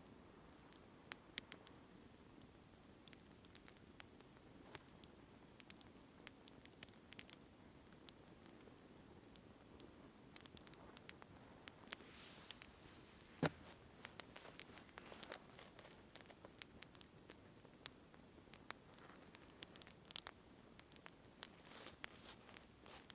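Sparse, irregular light ticks and taps of precipitation hitting tent fabric over a faint low background, with one sharper tap about halfway through.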